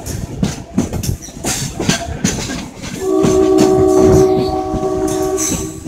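Express train running with its wheels clattering over rail joints. About three seconds in, a train horn sounds one long steady multi-tone blast that lasts nearly three seconds and stops just before the end, over the continuing wheel clatter.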